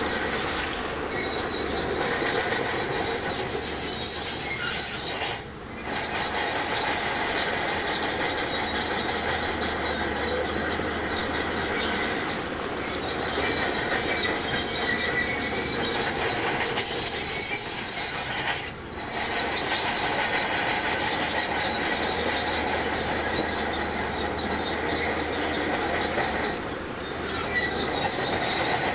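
Crawler bulldozer working stone: its diesel engine runs under a continuous metallic squealing and grinding of tracks and blade against rock. The sound drops away briefly twice.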